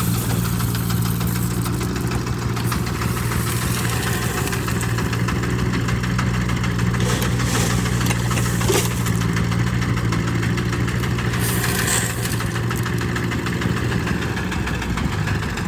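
Diesel engine running steadily at low speed, a constant low hum with a few sharp knocks in the middle.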